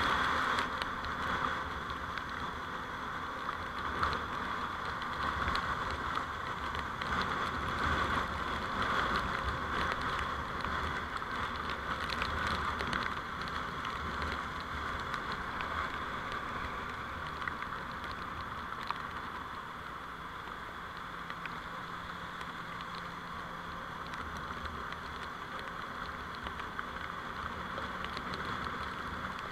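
Steady road and vehicle noise picked up by a dashcam while driving, a constant hiss with a low rumble and occasional small ticks, easing slightly in the second half.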